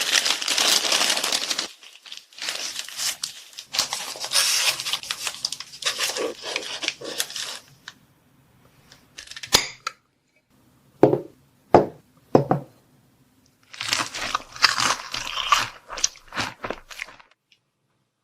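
Plastic food packaging being crinkled and torn open in several long rustling spells, with a few short sharp clicks in between.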